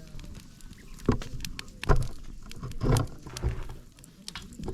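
Wood campfire crackling with many sharp pops, with three louder dull thuds about one, two and three seconds in.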